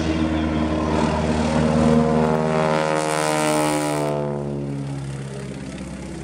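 Boeing Stearman biplane's radial engine and propeller flying past close by, the pitch dropping sharply about four seconds in as it goes by, then fading away.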